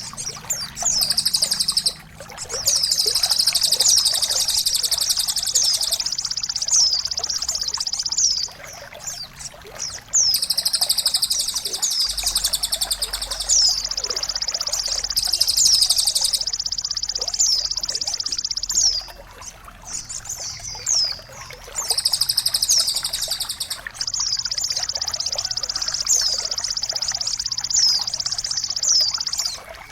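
Songbird song from a bird-mastering recording: long, rapid, high-pitched trilling phrases full of quick downward-sweeping notes, several seconds each, broken by short pauses, over a faint trickle of water.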